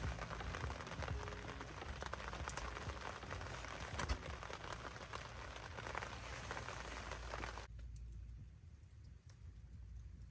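Wood campfire crackling, with many small snaps and one sharp pop about four seconds in; the crackle cuts off abruptly about three-quarters of the way through, leaving a faint low rumble.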